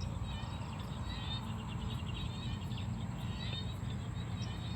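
Dusk chorus in a rice paddy: a steady high insect whine with repeated chirping, pulsing calls of small frogs and insects over it. A steady low rumble sits underneath.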